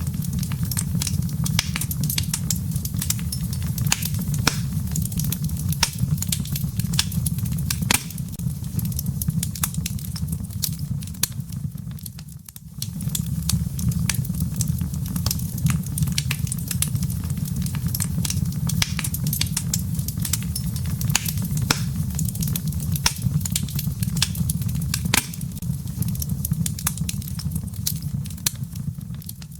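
Wood fire crackling in a fireplace: frequent sharp pops and snaps over a steady low rumble of the burning logs, with a brief lull about twelve seconds in.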